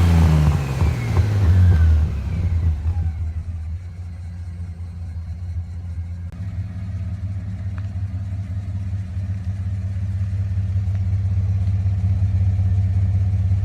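Toyota Land Cruiser FZJ80's 4.5-litre 1FZ-FE straight-six through a new 2.5-inch exhaust with one oval muffler and a hotdog resonator. The revs fall away over the first two seconds or so, then the engine settles into a steady low drone that slowly grows louder.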